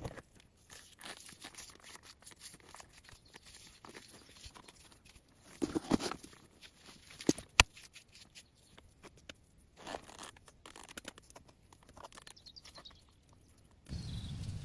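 Scattered crunches, crackles and snaps of twigs and dry leaves being handled or trodden on. There is a short cluster a little before the middle and a sharp snap just after it, and a denser rustling starts near the end.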